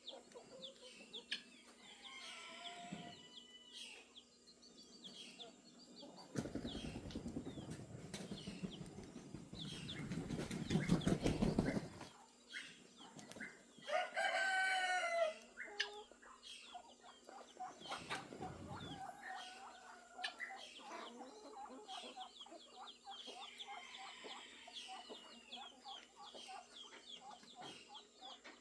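Farmyard chickens: a rooster crows once about halfway through, preceded by a few seconds of loud rustling that fits wing-flapping. Hens cluck and small birds chirp throughout.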